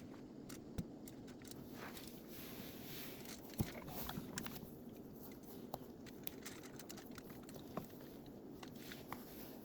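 Faint rustling of foil being folded around okpa parcels, with scattered light clicks and taps from handling.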